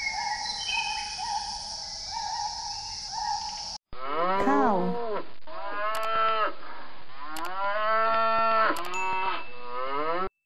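Cattle mooing: a string of long, drawn-out moos, one after another, starting about four seconds in. Before that there is a steady background with short, repeated high chirping notes.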